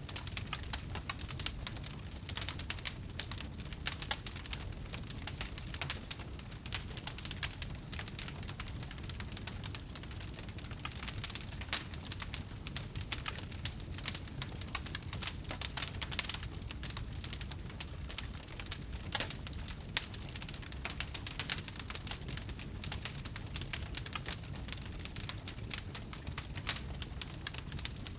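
Wood fire burning: a steady low rumble of flames with constant crackling and snapping of burning wood, a few louder pops now and then.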